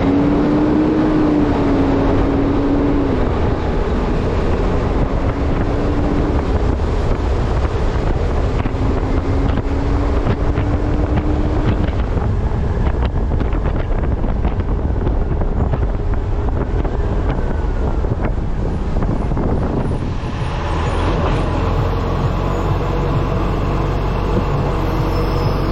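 Heavy wind noise buffeting a camera microphone on the front of a moving ACCO garbage truck, over the drone of the truck's engine. A faint engine tone rises near the start, and the sound shifts about 20 seconds in as a steadier tone comes in.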